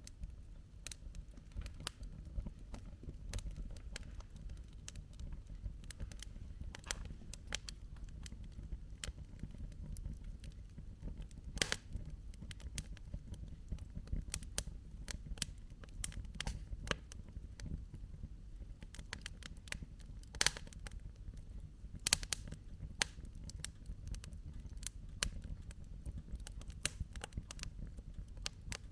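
Wood campfire crackling, with irregular sharp pops and snaps over a low steady rumble. A few pops stand out louder, around the middle and later on.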